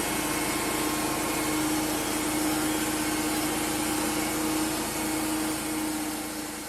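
Wood-Mizer LT35 band sawmill running steadily with a constant machine hum, fading out near the end.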